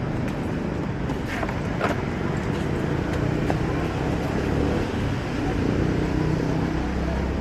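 Street traffic: motor vehicle engines running close by over a steady wash of road noise, with a couple of short sharp knocks about one and a half to two seconds in.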